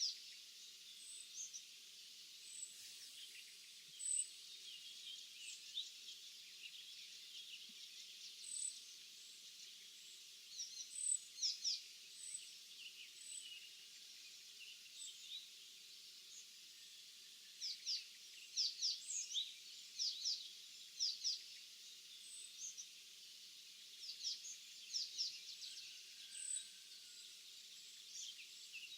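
Small songbirds chirping and calling in clusters of short, high notes over a faint, steady hiss of background noise, with brief thin high notes every few seconds.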